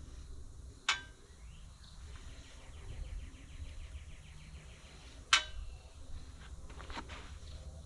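Two sharp, ringing metal clinks, about a second in and again about five seconds in, from tools and steel parts being handled while a tractor's hydraulic roller lift is taken apart. Between them comes a quick, even run of light ticks, about ten a second.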